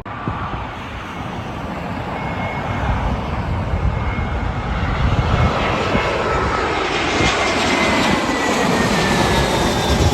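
Jet airliner passing: the engine noise grows steadily louder, and a whine in it slides down in pitch as the plane goes by.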